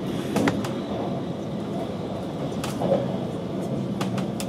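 Running noise inside an InterCity 2 Twindexx double-deck carriage travelling at speed: a steady rumble with scattered sharp clicks and knocks, the loudest about half a second in and near three seconds.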